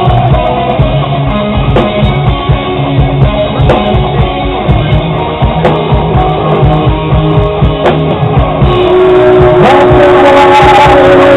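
A live progressive rock band playing electric guitar, bass and drum kit. About nine seconds in it builds into a fuller, louder passage with held guitar notes over a wash of cymbals.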